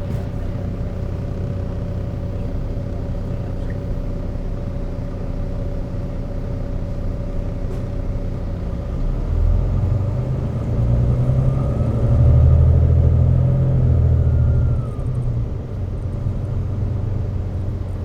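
Volvo B9TL bus's Volvo D9B diesel engine running with a steady hum, then louder and deeper for about six seconds from roughly nine seconds in, with a faint whine rising over it, before settling back to the steady hum.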